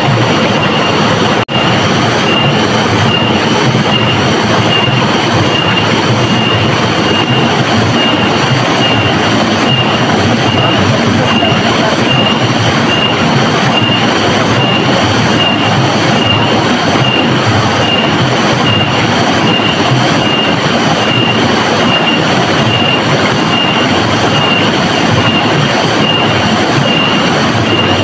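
Rushing river water, a loud, steady, even rush, with a faint high chirp repeating evenly about every two-thirds of a second over it. The sound drops out briefly about a second and a half in.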